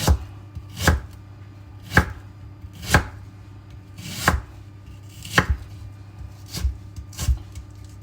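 Kitchen knife roughly chopping an onion on a chopping board: sharp single chops about once a second, eight or nine in all.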